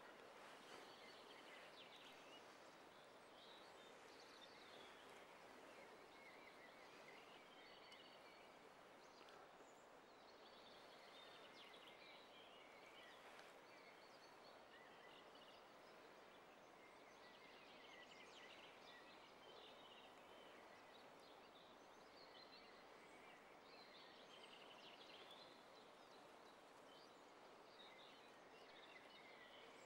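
Near silence with faint songbirds: short chirping, trilling songs come every few seconds over a steady low hiss.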